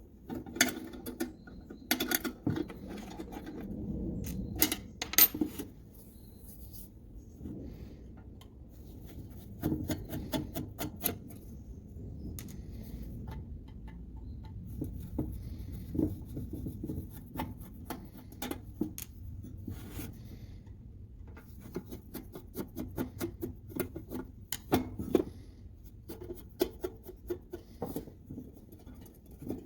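Hands working on small parts at a bench: scattered sharp clicks and taps, with stretches of rubbing or scraping between them.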